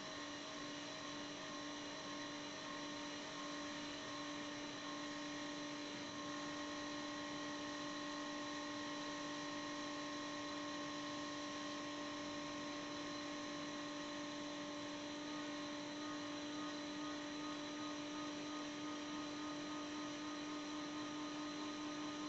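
Silent air compressor running steadily, a low hum with a fixed whine above it, growing slightly louder over time.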